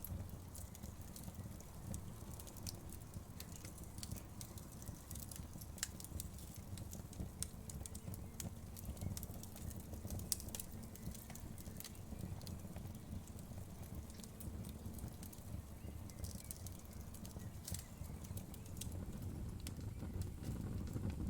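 Wood fire crackling: scattered sharp pops and snaps of burning wood over a steady low rumble of flames.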